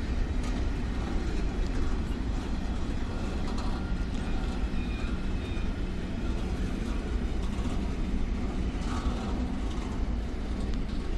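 A train running past on the line: a steady, even low rumble with no distinct wheel clicks.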